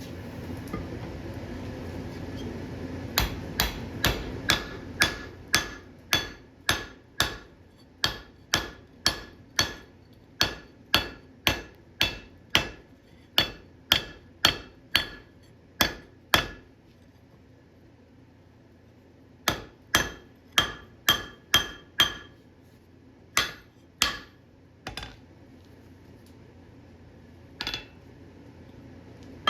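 Hand hammer striking hot steel bar stock on an anvil, about two ringing blows a second in runs with short pauses between them. A steady rushing noise comes before the first blows.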